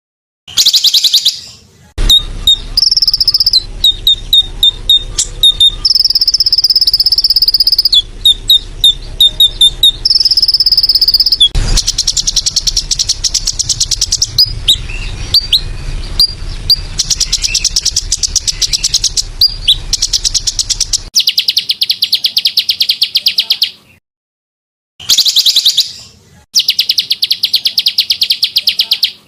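Spliced segments of small-bird song for tutoring songbirds: a very fast, buzzing, cricket-like trill alternating with sharp rapid chirps and short whistled notes that glide in pitch. The segments start and stop abruptly, with a brief silence near the start and another about 24 seconds in.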